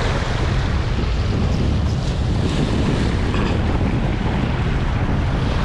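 Strong wind buffeting the microphone in a steady low rumble, over the wash of waves on the shore.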